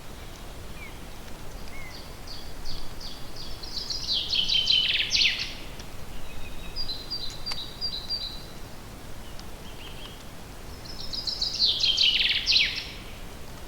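A songbird singing twice: each song is a quick series of repeated notes that speeds up and ends in a louder, falling flourish. Short high chirps come between the two songs, over a steady background hiss.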